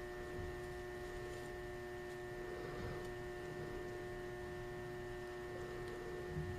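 Steady electrical hum from freshly powered elevator machine-room equipment, several steady tones held over a faint background noise.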